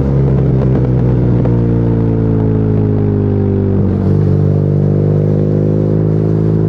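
BMW R nineT's air/oil-cooled boxer twin running through an Akrapovic exhaust as the motorcycle rides along at a fairly steady engine speed. The engine note breaks briefly about one and a half seconds in and again about four seconds in, then settles back to a steady pitch.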